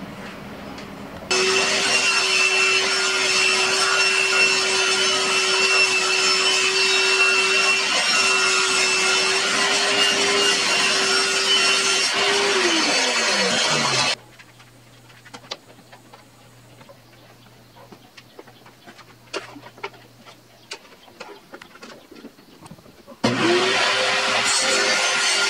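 Bosch GTS 254 table saw running at full speed while ripping a thin wooden strip to width, then switched off about halfway through, its motor winding down with a falling whine. After several seconds of light clicks, it is started again, its whine rising quickly to full speed.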